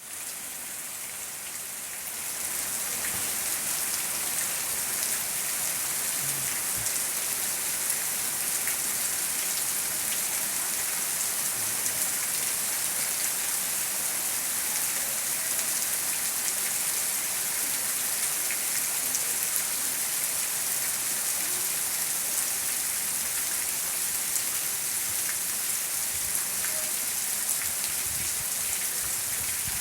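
Heavy rain falling steadily, a dense hiss that swells about two seconds in and then holds.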